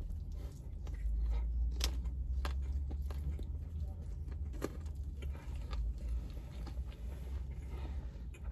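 Chewing a whole fried chicken wing with a full mouth: wet chewing with a few sharp crunches, over a steady low rumble.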